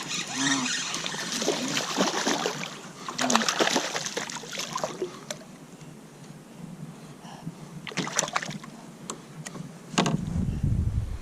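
Water splashing and sloshing around a kayak, with scattered clicks and knocks. A low rumble starts near the end.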